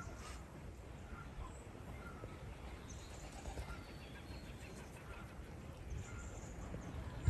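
Birds giving short, scattered calls over a steady low rumble.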